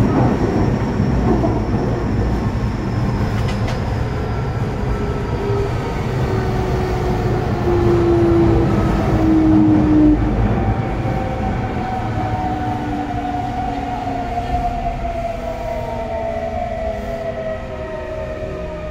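Toei 6300 series train's GTO-thyristor inverter whining in several steady tones that slowly fall in pitch as the train slows, over the rumble of the running gear, heard from inside the car.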